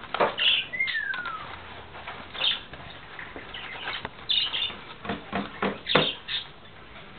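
Pet birds foraging in a fibre forage box, with irregular crackling and rustling of the material as it is picked at. Several short high chirps, and a single descending whistle about a second in.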